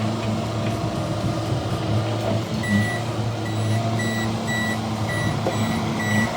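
Bobcat skid-steer loader's engine running steadily, with its reverse alarm starting to beep about two and a half seconds in, about two beeps a second: the machine is backing up.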